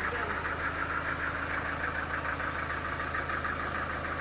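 An engine or motor-driven machine running steadily, with a low hum and a rapid, even pulse.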